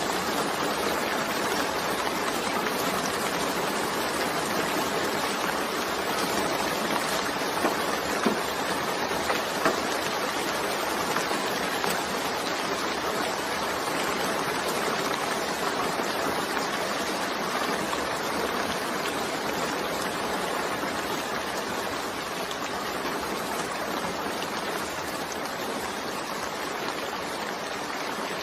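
Steady rain falling, an even wash of water noise, with a few sharper drop hits about eight to ten seconds in.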